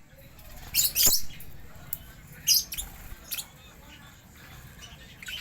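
Pet lovebirds giving short, shrill chirps and squeaks, five or so scattered calls, the loudest pair about a second in.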